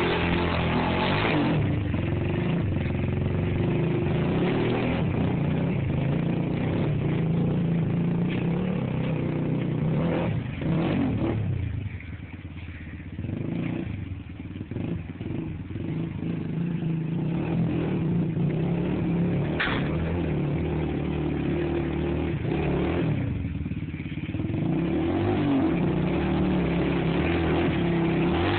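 Dirt bike engine running and revving under load, the pitch rising and falling with the throttle. It drops off to a lower, quieter run for a few seconds around the middle, then picks back up.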